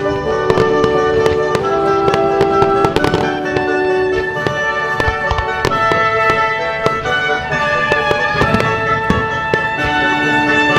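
Fireworks banging and crackling over music with long held notes. The bangs come thick and fast for the first few seconds, then more sparsely.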